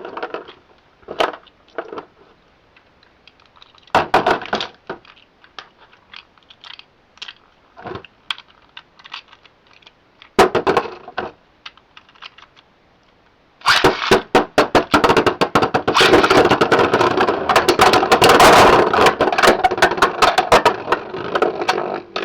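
Beyblade X spinning tops handled and set on their launchers with scattered plastic clicks and knocks. About 14 seconds in they are launched, and for about eight seconds the tops spin and clash in the plastic stadium with a dense, rapid rattle of hits.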